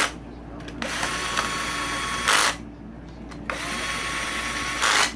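A small cordless power driver spinning the cam cap bolts down into a Honda CRF450R cylinder head, one bolt after another. It runs in two steady whirring stretches of about a second and a half, each ending in a short, loud burst as the bolt seats, with brief pauses between.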